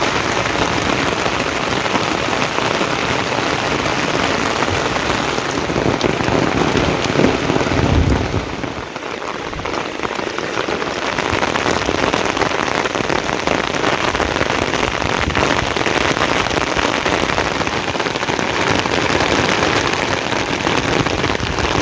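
Steady, fairly heavy rain falling, a dense even hiss. A low rumble swells about seven seconds in and drops away about a second later.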